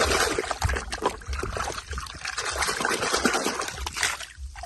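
Water trickling and splashing over plastic toy vehicles, with small clicks and knocks of the toys being handled; the water sound drops away about four seconds in.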